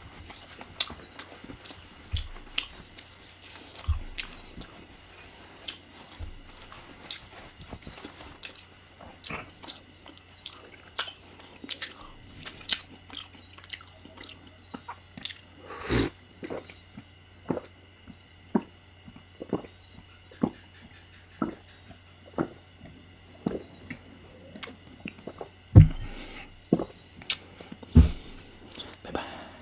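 Close-miked eating of spicy chicken curry: chewing and biting with many short, sharp, wet mouth clicks, and a few louder knocks around the middle and near the end.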